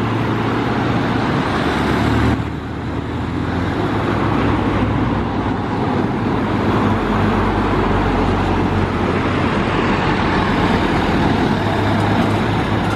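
Heavy truck diesel engine running loud and steady with road noise, its sound dropping abruptly about two seconds in and then continuing.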